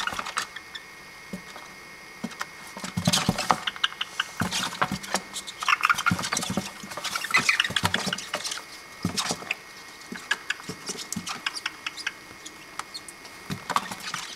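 Dozens of toads chirping in short, high-pitched bursts, with scattered clicks and taps among them.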